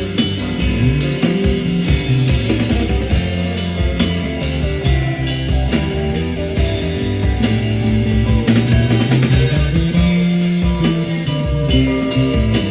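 Rock band playing: guitar over a drum kit, with steady sustained low notes and regular drum hits.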